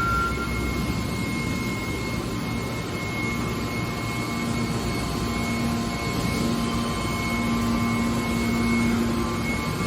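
Hydraulic scrap steel baler running: a steady mechanical din with a thin high whine, and a lower hum that comes in about halfway and grows stronger.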